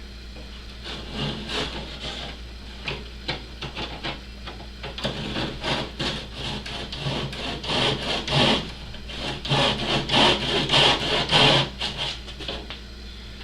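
Small saw cutting through a model aircraft fuselage, in quick back-and-forth rasping strokes that grow louder and more continuous about halfway through.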